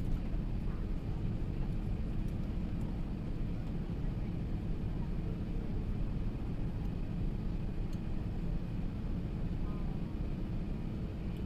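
Steady cabin noise inside an Airbus A380 in flight: a constant low rumble of engines and rushing air, with a faint steady hum.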